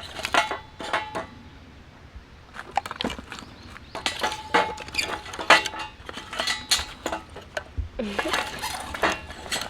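Metal camp cookware and utensils clinking and knocking, one item after another, some strikes leaving a short ringing tone.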